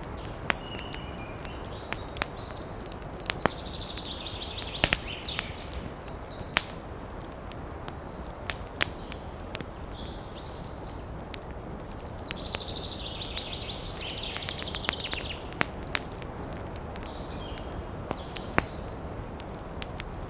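Campfire crackling, with sharp irregular pops over a steady low rush. Twice, a rapid chattering call from a bird or small animal rises over the fire, each lasting two or three seconds.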